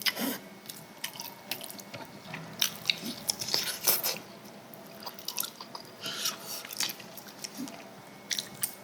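Close-miked chewing and mouth sounds of people eating, with irregular short sharp clicks and smacks.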